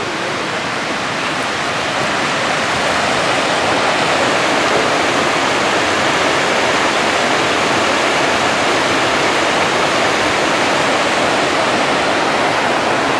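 Mountain creek rushing and cascading over rocks: a steady, dense hiss of falling water that grows a little louder over the first few seconds, then holds even.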